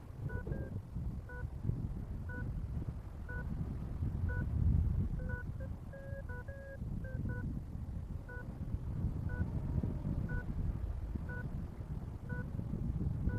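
Paragliding variometer beeping in short electronic tones about once a second. Around the middle the beeps briefly go higher in pitch, the instrument signalling lift. Wind rumbles on the microphone throughout.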